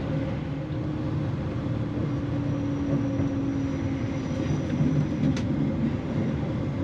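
Cabin noise inside a CrossCountry Voyager diesel multiple-unit train: a steady low rumble with a hum from the underfloor diesel engines, and a faint click about five seconds in.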